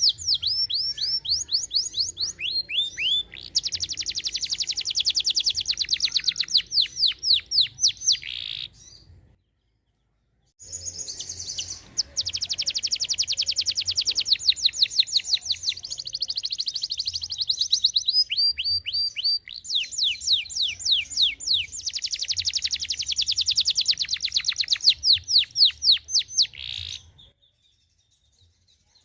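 Domestic canary singing long runs of rapid rolling trills, each a fast string of repeated high notes. It stops for about a second and a half about nine seconds in, and falls silent again near the end.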